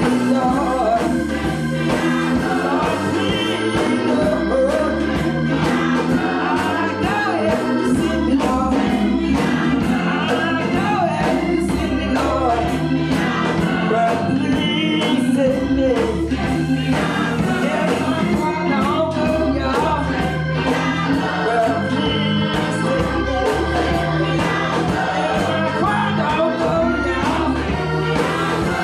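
Gospel church choir singing with a live band and a steady drum beat.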